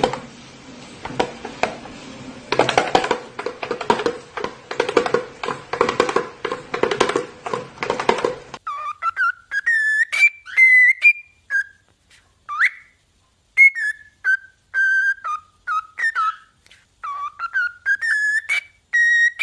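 A pet bird whistling a series of short notes that slide up and down in pitch, beginning about nine seconds in. Before that comes a run of rapid rhythmic tapping over a steady low tone.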